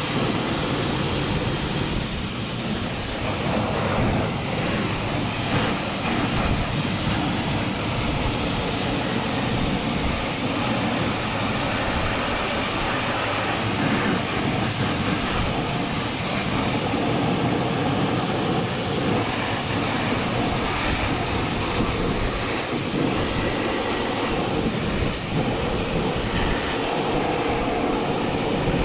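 High-pressure washer running steadily, its water jet spraying onto farm machinery.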